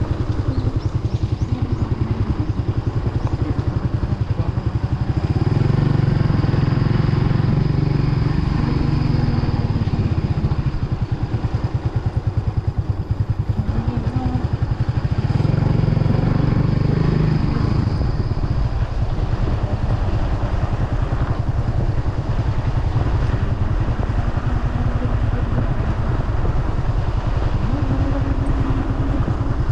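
Kawasaki W175's single-cylinder engine running as the motorcycle rides downhill, getting louder for a few seconds twice.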